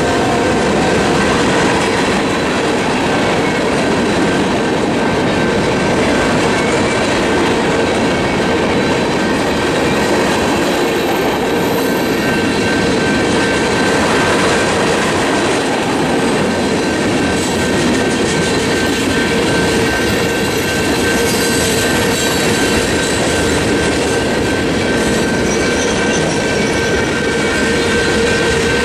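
Freight train of tank cars and hoppers rolling through a grade crossing, wheels clattering over the rail joints with some wheel squeal, while the crossing's General Signals Type 2 electronic bells ring.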